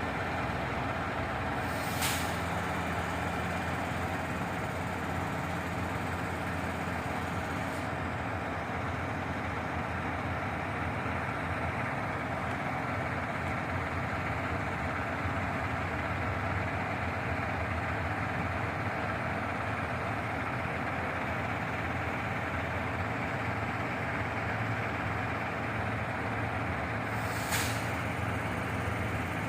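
Shingle delivery truck's engine running steadily, with two short air hisses, one about two seconds in and one near the end.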